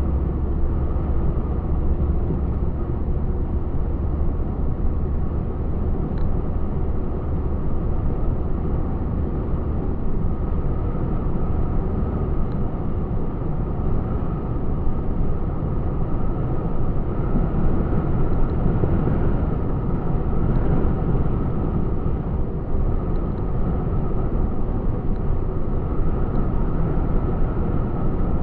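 Truck on the road: steady engine and road noise while driving, with a deep low hum strongest in the first few seconds.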